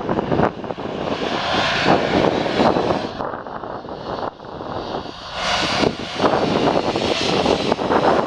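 Jet engines of a Boeing 737-900 airliner running, a steady noise that rises and falls unevenly.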